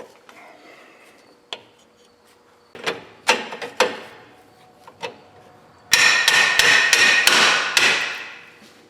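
Hammer striking metal: a few scattered knocks, then about six seconds in a quick run of ringing blows, roughly four a second, that fade away near the end.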